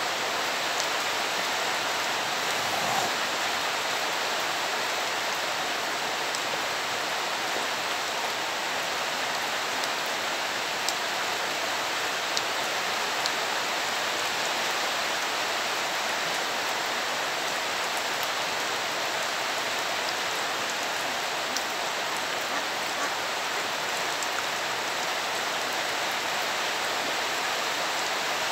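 Steady rain falling, an even hiss, with a few faint ticks.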